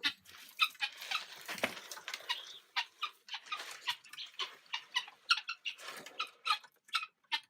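Poultry at a feeder making many short, sharp sounds in quick irregular succession.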